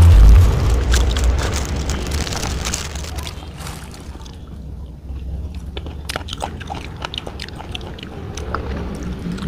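Close-miked chewing and crunching on a chicken foot, with many small sharp crunches and clicks in the second half. The first three seconds or so are taken up by a louder rustling noise with low thumps.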